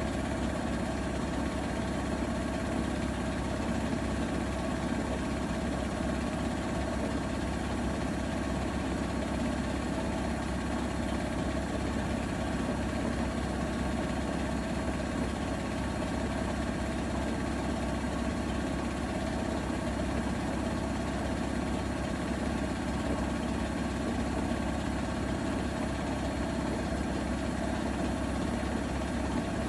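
Bosch Serie 4 WAK20260TR front-loading washing machine running with a steady hum and rumble that holds constant without change, typical of the drum spinning at a steady speed near the end of its cycle.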